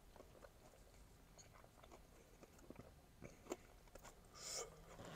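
Faint chewing of a mouthful of crispy fried hot chicken, with small wet mouth clicks. Near the end comes a short breathy hiss.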